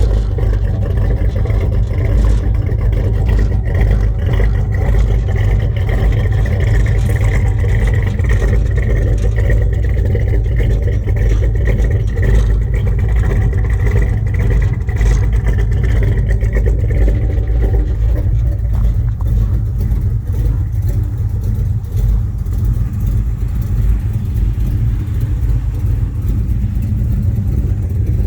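1970 Chevrolet Chevelle engine running at a steady idle after a cold start, a loud low rumble. Its higher tones ease off a little about two-thirds of the way through.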